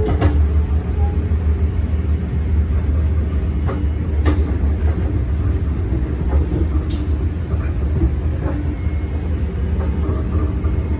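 Long Island Rail Road commuter train running along the track, heard from inside the car: a steady low rumble with a few scattered clicks and knocks.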